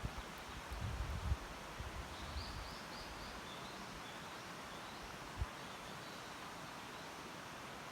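Outdoor ambience with a steady hiss and low wind rumble on the microphone in the first second or so. A bird gives a short series of high chirps that fade, about two to three seconds in. There is a single soft low thump about five seconds in.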